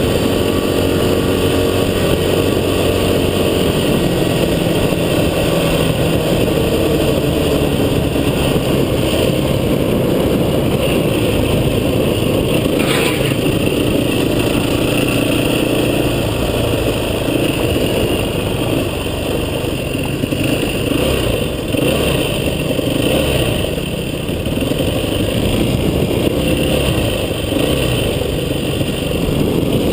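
A vehicle engine running continuously on an off-road trail, its pitch rising and falling with the throttle, with a single sharp knock about halfway through.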